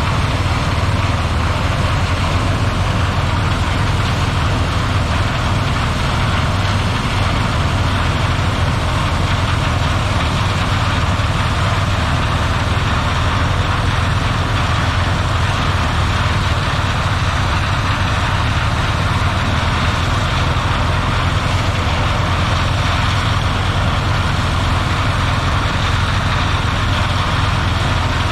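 Claas Lexion 740 combine harvester running steadily under way, a constant heavy engine drone with an even hiss of machinery over it.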